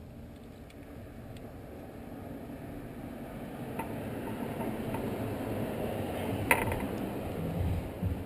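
Small clicks and clinks of a die-cast metal scale model and its scrap shear attachment being handled, over a rustling noise that grows louder, with one sharp click about six and a half seconds in.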